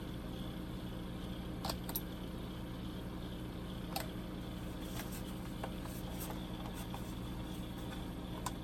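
A few faint clicks and light taps of plastic kit parts and a glue applicator being handled, scattered over several seconds, over a steady low hum.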